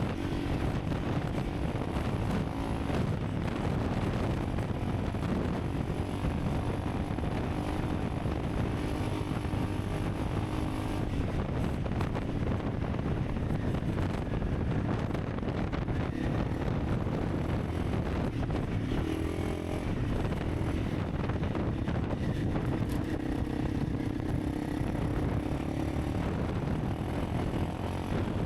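Honda CRF300 Rally's single-cylinder engine running as the motorcycle is ridden, under a steady rushing noise; the engine note rises and falls a few times with changing revs.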